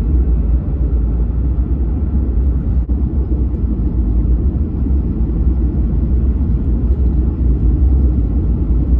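Ram pickup truck under way, a steady low rumble of engine and road noise.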